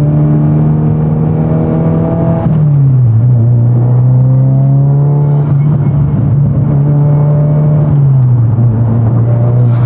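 Cabin drone of a 2022 Subaru WRX's turbocharged 2.4-litre flat-four through a titanium dual-exit catback exhaust, heard from inside the car under acceleration. The engine note climbs slowly and drops in pitch twice, about two and a half seconds in and again near the end, as it shifts up.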